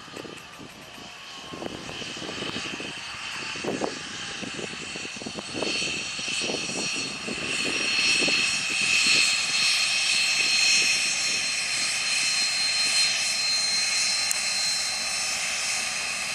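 Cessna Citation M2 business jet's twin turbofan engines passing close during landing: a jet rush with a high steady whine, growing louder over the first half and then holding.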